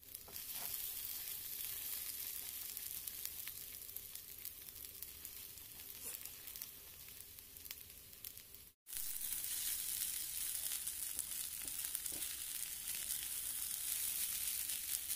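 Fried rice with an egg in its centre sizzling steadily in a hot oiled pan, with a short dropout about nine seconds in. Near the end a silicone spatula turns the rice.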